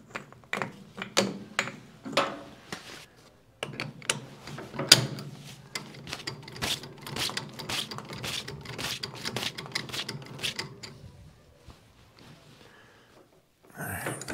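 Metal tools and parts being handled at a lathe: irregular clicks and clinks, dense and rapid from about three and a half seconds in, over a steady low hum, then dying away near the end.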